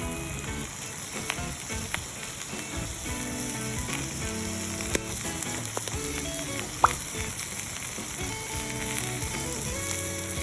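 Food sizzling and frying over an open wood campfire, a steady hiss with occasional sharp pops, one louder pop about seven seconds in. Light background music plays underneath.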